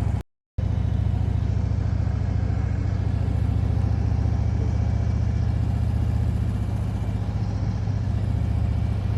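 Harley-Davidson V-twin motorcycle running steadily at cruising speed, a steady low rumble under road and air noise. The sound drops out completely for a moment about a quarter second in.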